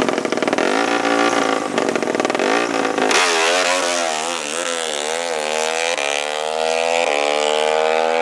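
A drag-racing ATV engine revving, its pitch wavering with throttle blips. It then pulls hard with a rising pitch, broken by gear shifts about six and seven seconds in.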